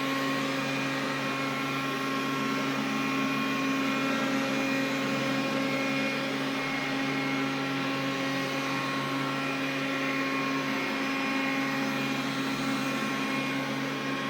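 Xiaomi vacuum cleaner running steadily with an even hum made of several held tones, the extraneous noise its owner is recording.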